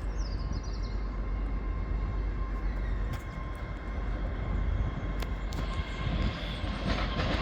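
Train running at low speed: a steady low rumble with a faint steady whine and a few sharp clicks, growing louder near the end.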